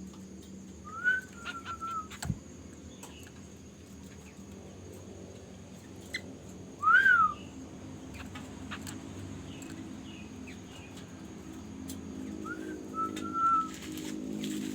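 A bird gives three clear whistled calls, spaced about six seconds apart. The first and last rise and then hold level; the loudest one, in the middle, rises and falls quickly. There is a single soft knock about two seconds in.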